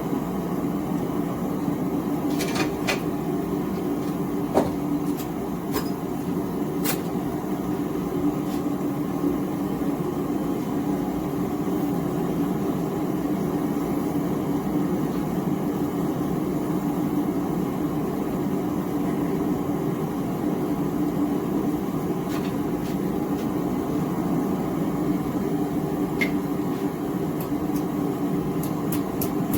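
Small gas forge burner running with a steady rushing hum, with a few light metallic clicks and taps scattered through as the steel is worked for bending and shaping.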